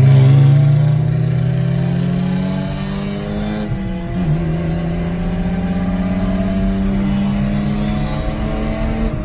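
Car engine pulling under acceleration, its pitch rising steadily for about three and a half seconds, dropping briefly at a gear change about four seconds in, then pulling on at a steady note.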